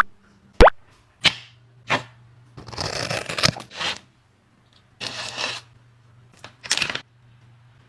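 A dog eating noisily: sharp wet smacks and clicks of its mouth, then longer crackly bursts of chewing.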